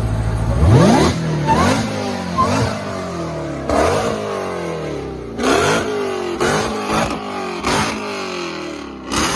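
Car engine idling, then revved hard about half a second in and blipped again and again, each rev rising sharply and falling away.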